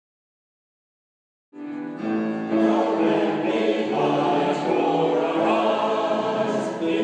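Silence for about a second and a half, then a church choir starts singing in long held notes.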